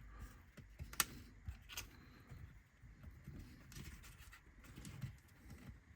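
Quiet handling of small laser-cut wooden kit parts on a work surface, with faint rustling and a few light clicks, the sharpest about a second in.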